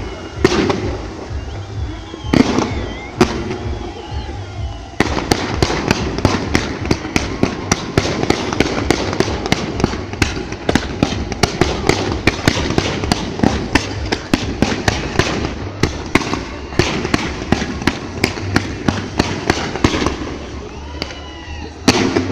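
Fireworks display, aerial shells bursting. Scattered bangs at first, then about five seconds in a dense, rapid barrage of many bangs a second that eases off near the end.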